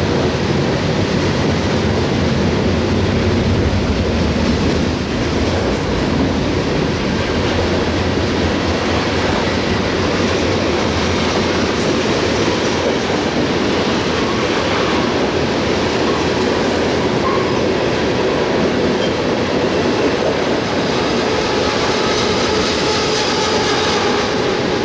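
CSX freight train's cars rolling past, steel wheels clattering over the rail joints in a steady, continuous rumble. A faint wheel squeal rises toward the end.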